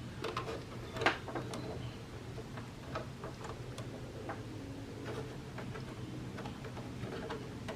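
Scattered small clicks and taps of hands working the wiring and plastic parts of a split-type air conditioner's indoor unit during reassembly, the sharpest about a second in, over a steady low hum.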